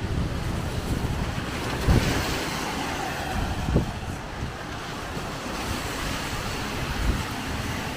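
Strong wind buffeting the microphone over steady heavy rain, with a few short low thumps about two, four and seven seconds in.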